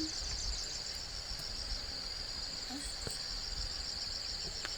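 A steady, high-pitched insect chorus, a continuous trill with a fine pulsing, over a low rumble and a few faint ticks.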